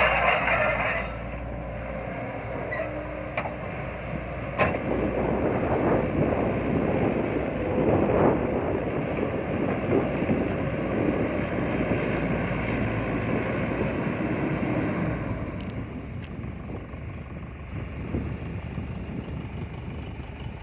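Hydraulic excavator working, its diesel engine running steadily under load, with a sharp knock about four and a half seconds in.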